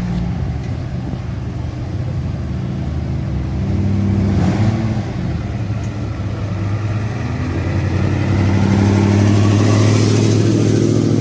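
Aston Martin Mark II's engine running and revving: the pitch climbs and falls back about four seconds in, then rises again and is loudest near the end.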